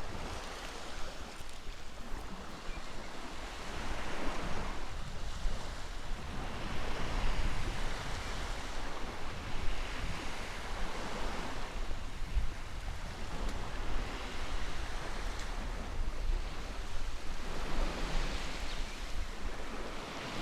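Ocean waves washing in, a steady rush of surf that swells and fades every few seconds.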